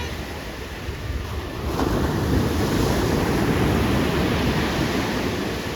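Ocean surf: a wave breaking and washing in, swelling about two seconds in and easing near the end, with wind rumbling on the microphone.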